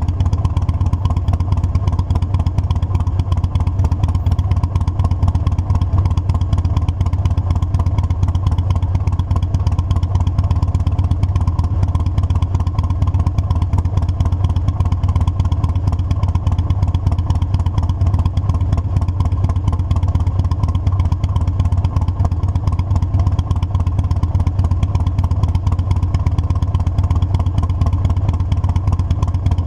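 Motorcycle engine running at a steady, unchanging pitch, a loud low rumble, heard from on the bike.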